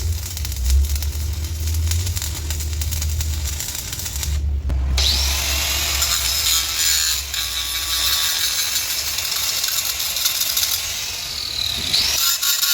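An electric power tool working on steel, loud and continuous, with its pitch sweeping up and down at times.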